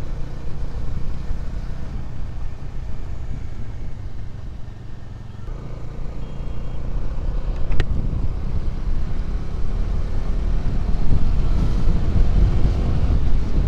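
Motorcycle riding on the road: engine and road noise with wind rumbling on the microphone, growing louder in the second half. There is one sharp click about eight seconds in.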